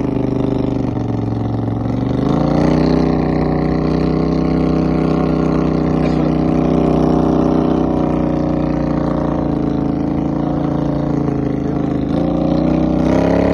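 Vehicle engine running under load. The revs climb about two seconds in and hold steady, then ease off briefly near the end before rising again.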